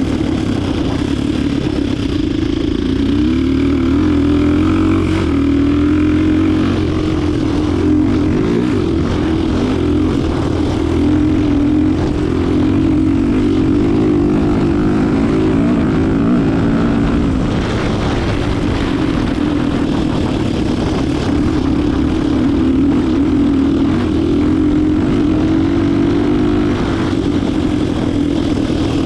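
Motorcycle running on a swapped-in Diabolini 250 cc four-stroke engine, a steady engine note whose pitch rises and falls a little as the throttle changes.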